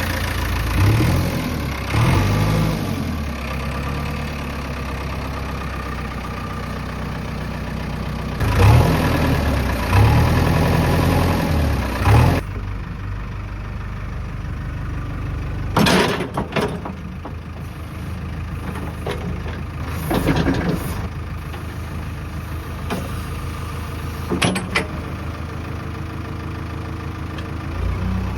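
Heavy diesel machinery engine idling, revving up and back down a few times in the first half. Several short knocks come later.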